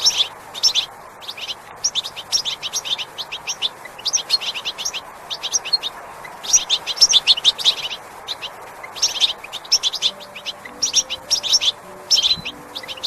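Many small birds chirping busily: rapid, high chirps in short overlapping bursts, one after another, over a steady background hiss. Faint low held tones come in near the end.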